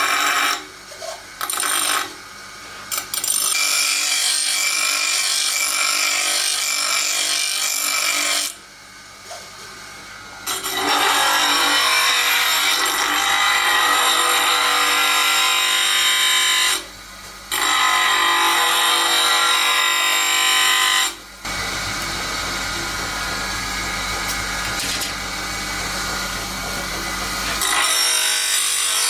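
A power tool running in long stretches, stopping briefly several times. From about 21 to 28 seconds in, its sound turns lower and heavier.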